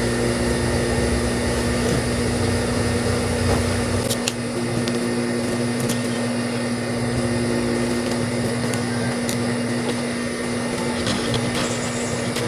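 High-speed sewing machine running steadily as it stitches, with a constant motor hum; a low rumble drops away about four seconds in while the hum carries on.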